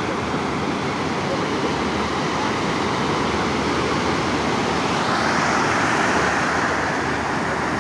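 Surf of a rough, stormy sea breaking on a beach: a steady rush of waves that swells as a wave breaks about five seconds in.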